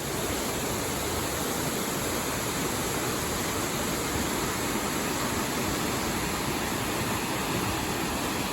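Steady, even rushing noise that holds one level throughout, with no clicks, rhythm or pitch.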